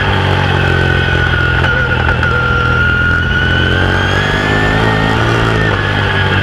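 Open-wheel modified race car's V8 engine at racing speed, heard from inside the car. Its pitch sags slightly, climbs for a few seconds, then falls away again near the end, as on and off the throttle around an oval.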